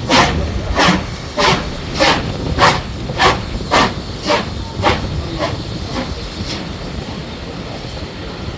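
Exhaust beats of BR Standard Class 4 steam locomotive 75014 working a train: a steady chuff about every 0.6 seconds that grows fainter and dies away after about six seconds, leaving a steady rumble.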